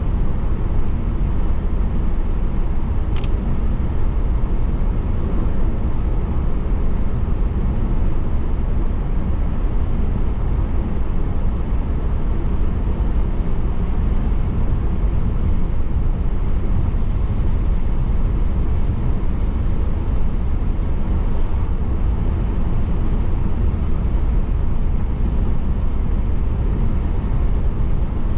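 Steady road noise of a car driving on a wet road in light rain, a low rumble of engine and tyres, with one brief sharp tick about three seconds in.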